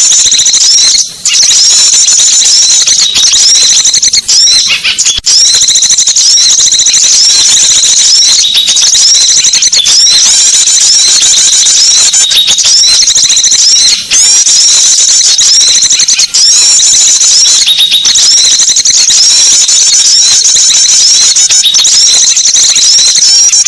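Dense, loud, high-pitched chattering and trilling of many small songbirds, the kind of recording played as a lure to call small birds in, with a few brief breaks.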